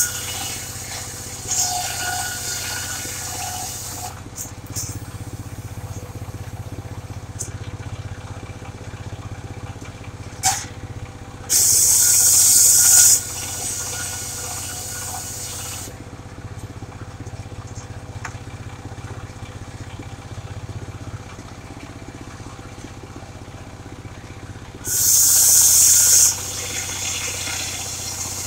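Engine of a mobile circular sawmill running steadily, with two loud hissing bursts of about a second and a half, one near the middle and one near the end, and a short sharp noise about ten seconds in.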